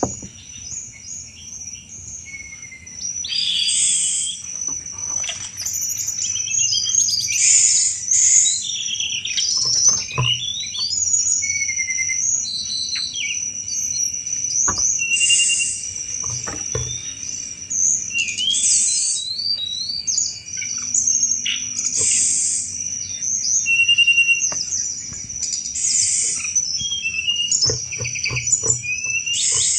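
Tledekan gunung singing its chattering 'cetrekan' song, a burst of rapid high notes about every three to four seconds, over a steady high whine.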